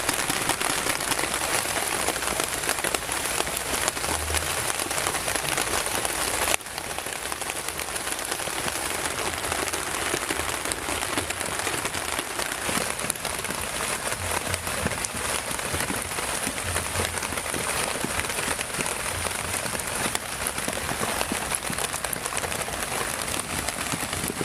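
Heavy rain falling steadily. About six and a half seconds in it cuts abruptly to a slightly quieter stretch of the same rain.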